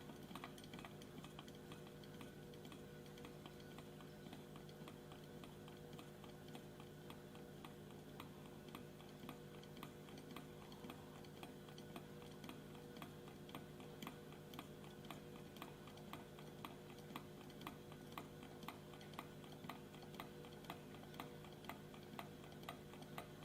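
Small low-temperature-differential Stirling engine running on a heat differential, its flywheel and displacer mechanism making a faint, regular ticking.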